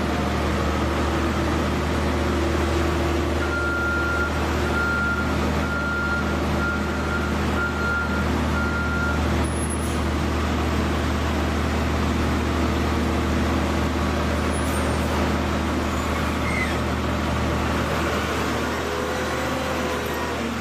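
Heavy diesel mining machinery running with a steady low drone. From about three seconds in, a reversing alarm beeps seven or so times, a little under a second apart, for about six seconds.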